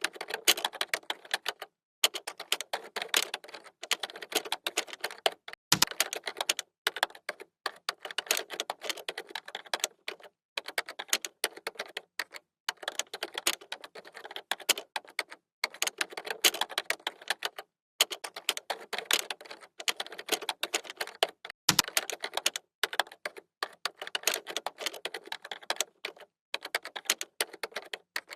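Computer keyboard typing: fast runs of key clicks broken by short pauses every second or two, with an occasional deeper thump, such as a space bar or a heavier keystroke.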